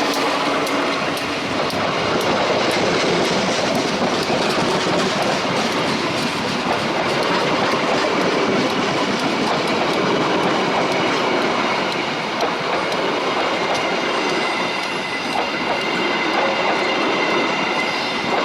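A train running close past, its wheels clattering over the rail joints in a long, steady stream of clicks. A thin, high wheel squeal comes in during the last few seconds.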